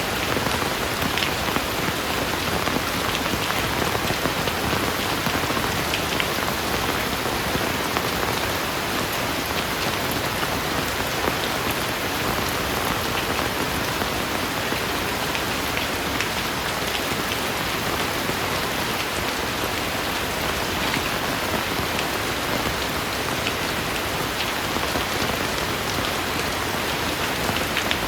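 Heavy rain falling steadily: an even hiss with scattered sharper drop hits.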